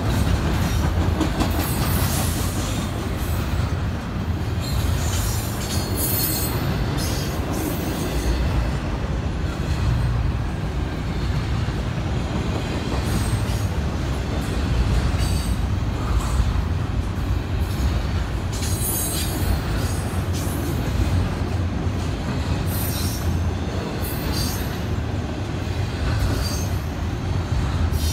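Freight train rolling past: a steady low rumble of the cars on the rails, with brief high-pitched wheel squeals breaking in every second or two.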